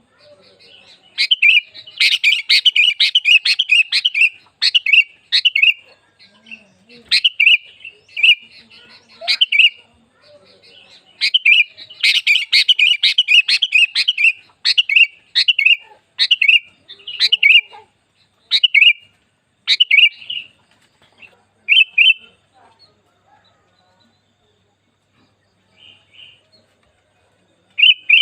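Sooty-headed bulbul (kutilang) calling. Runs of rapid chattering calls alternate with single short calls about once a second. The calls thin out to a few faint ones near the end.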